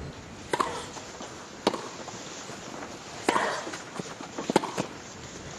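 Tennis ball struck by rackets in a rally, with sharp hits roughly a second apart and a couple of closer together near the end.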